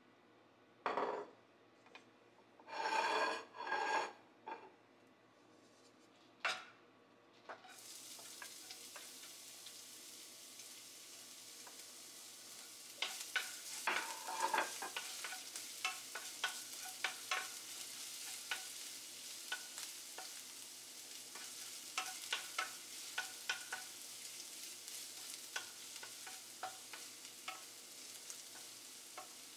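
Minced garlic sizzling in hot oil in a nonstick frying pan while a wooden spatula stirs and scrapes it round the pan. The steady sizzle starts about eight seconds in, after a few short louder clattering noises, and the spatula's scrapes and taps come in uneven bunches.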